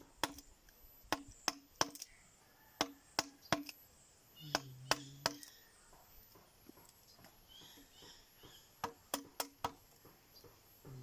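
Mallet striking a carving chisel into wood: sharp knocks in quick groups of three or four, with a pause of a few seconds in the middle.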